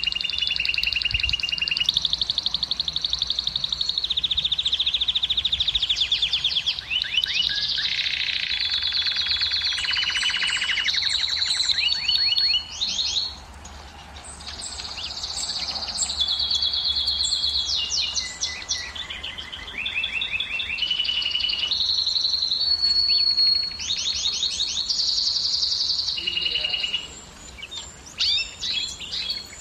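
Male domestic canary singing a continuous song of fast rolling trills, each a rapid run of repeated syllables, switching every second or so to a new tour or to a held whistled note. The song eases off for a couple of seconds midway, then resumes.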